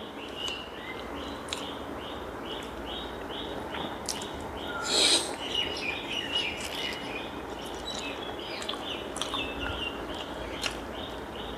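A bird chirping over and over in the background, short falling notes about two a second, under soft eating sounds of chewing and finger clicks from a meal eaten by hand. A louder short smack comes about five seconds in.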